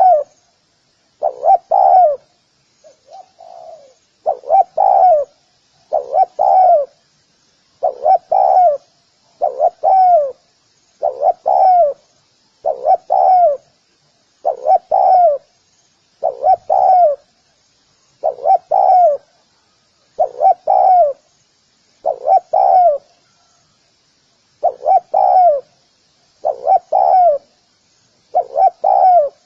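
Spotted dove cooing: a short cluster of two or three coos repeated about every two seconds, each note falling in pitch. Faint high chirping runs behind.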